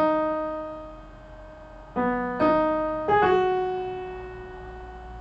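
Piano playing a slow melody one note at a time. The first note is struck at the start and held about two seconds, two quicker notes follow about two seconds in, and a last note about three seconds in is left to ring and fade.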